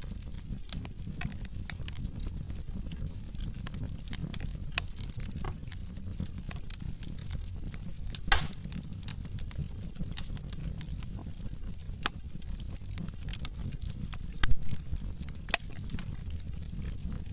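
Logs burning in a fireplace: a steady low rumble of flames under constant crackling. There are two louder pops, about eight seconds in and about fourteen seconds in.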